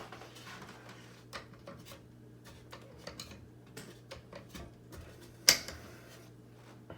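Scattered light clicks and knocks of hands working on a Hunter Original ceiling fan's reverse-air blade arms, clicking the blades into opposite pitch, with one sharp click about five and a half seconds in. A faint steady hum lies underneath.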